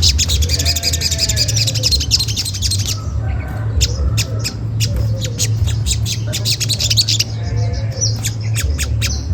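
Olive-backed sunbird calling: rapid, sharp 'cret cret' chips throughout, with dense high twittering in the first three seconds, over a steady low hum.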